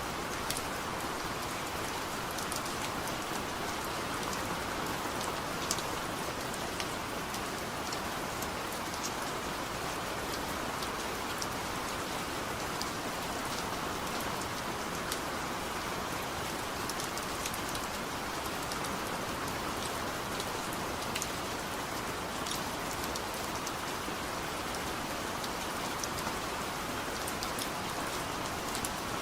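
Heavy rain falling steadily, with scattered sharp drop hits.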